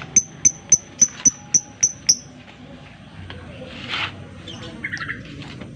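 Lovebird giving its rapid ticking call: about eight sharp, high chips at roughly four a second, then a single harsher call about four seconds in.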